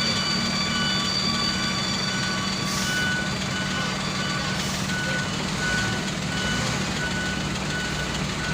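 Bulldozer's diesel engine running steadily while its reversing alarm beeps about once every 0.7 seconds, as the machine backs down off a lowboy trailer. Two brief hisses come about three and five seconds in.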